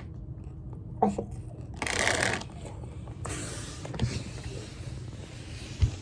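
Popcorn bag rustling as it is handled: a short loud rustle about two seconds in, then a longer, fainter rustle, with a few soft knocks.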